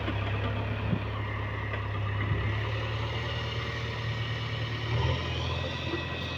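Diesel engine of heavy machinery running steadily at low revs, with a brief swell about five seconds in.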